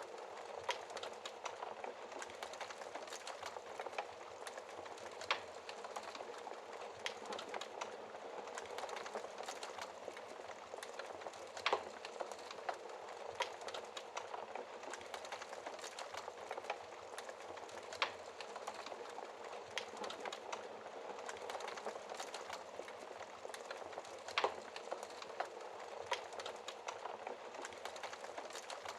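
Wood fire crackling in a fireplace: a steady soft hiss and crackle with sharp pops every second or two.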